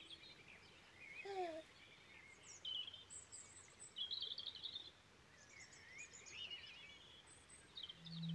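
Faint outdoor birdsong: several small birds chirping and warbling in short, high phrases, with a brief lower falling note about a second in.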